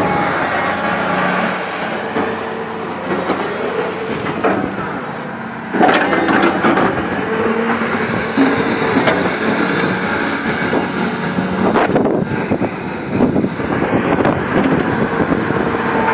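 Komatsu PC200LC-5L excavator's diesel engine running while the machine is worked, growing louder suddenly about six seconds in, with a few sharp metal clanks.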